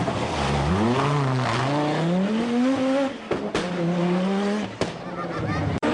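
Group B rally car engine under hard acceleration, its pitch climbing and dropping back at a gear change, then climbing again before lifting off. A couple of abrupt breaks follow near the end.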